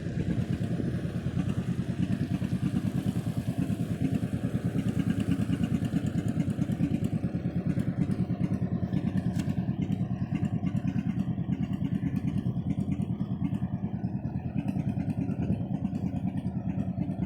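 A pulling tractor's engine running steadily at an even pace, with a fast, regular firing beat that holds unchanged throughout.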